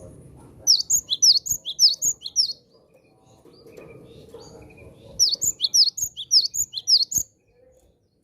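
Cinereous tit (gelatik batu) singing: two phrases of rapid, repeated high whistled notes that each slide downward, each phrase lasting about two seconds with a pause between.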